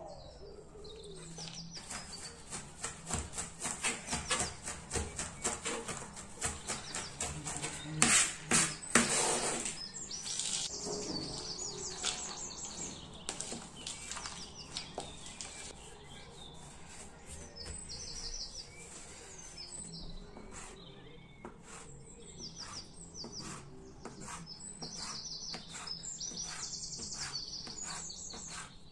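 Small birds chirping and trilling in short repeated phrases. For the first ten seconds or so a fast run of sharp knocks and taps is louder than the birds.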